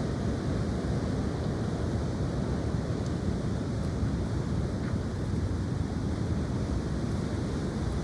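High wind blowing steadily, with wind buffeting the microphone as a low rumble.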